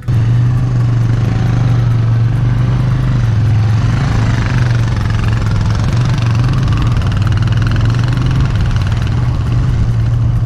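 Motorcycle engine running at a steady speed while riding, with wind and road noise on the action camera's microphone.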